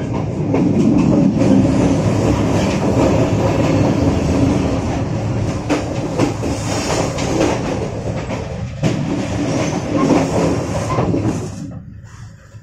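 Passenger train running on the rails, heard from inside the coach: steady rolling noise with the clatter of wheels over rail joints and points. The noise falls away near the end.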